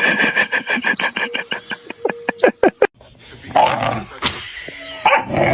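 A dog barking and yipping: a quick run of sharp yaps for about three seconds, then a break and a few rougher, louder barks.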